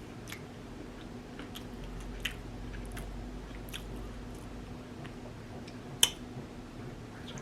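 A person chewing food close to the microphone: wet mouth clicks and smacks, with one sharper click about six seconds in. A faint steady hum runs underneath.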